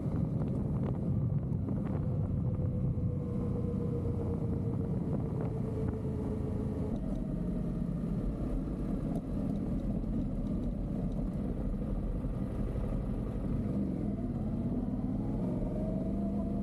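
Yamaha Ténéré 700 parallel-twin engine running under way, over steady low road noise. Its pitch sinks slowly over the first several seconds as the bike eases off, then rises again near the end.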